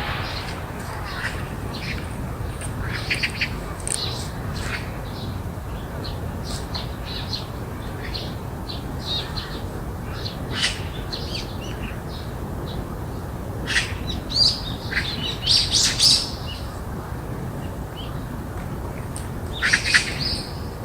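Birds chirping in short, scattered calls, with louder flurries of chirps about two-thirds of the way in and again near the end, over a steady low background rumble.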